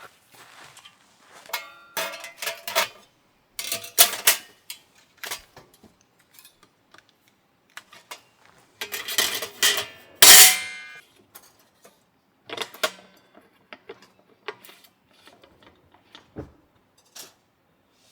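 Irregular clatters and clinks of objects being handled and set down, several with a short ringing tone, loudest about two seconds in, around four seconds and past the middle.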